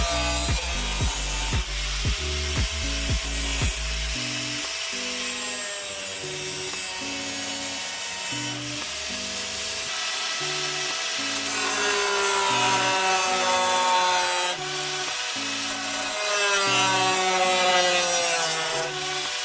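A power tool cutting sheet metal, a steady grating noise, under background music with a bass line and a melody. The music's thumping beat drops out about four seconds in.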